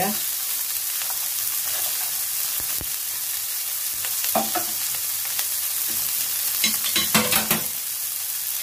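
Baby asparagus spears and minced garlic sizzling steadily in melted butter in a frying pan, with a couple of faint clicks about three seconds in.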